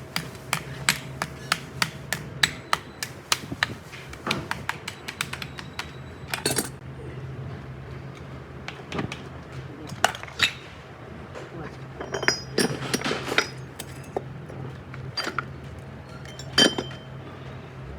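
Hammer taps and clinks on metal gearbox parts: a quick run of light strikes, about three a second, for the first four seconds, then scattered knocks and clinks, some ringing briefly, over a steady low hum.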